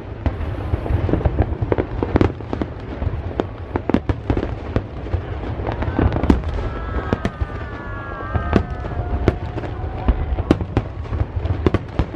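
Large fireworks display: a dense run of bangs and crackles over a continuous low rumble of bursting shells, with a few thin whistling tones near the middle.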